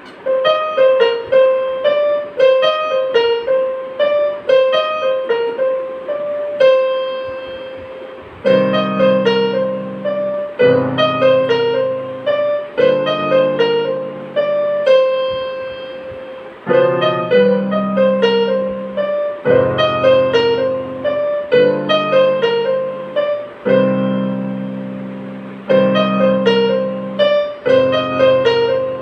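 Piano playing a simple melody of short, repeated notes. From about eight seconds in, low held chords join underneath, changing about every two seconds.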